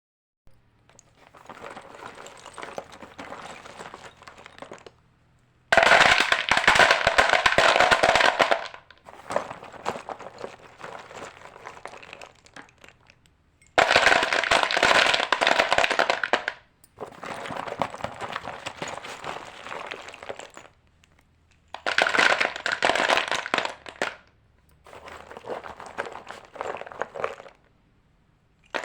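White chalk being crunched, in bouts of dense crackling a few seconds long with short silences between. The bouts alternate louder and quieter, the louder ones coming about six seconds in, midway and near the end.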